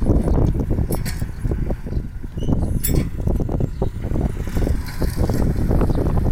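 Kubota farm tractor's diesel engine running steadily, with irregular clattering knocks over it.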